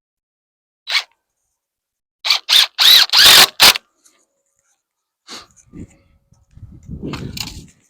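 A dog barking: one bark, then a quick run of about five loud barks. Low rustling and handling noise follows near the end.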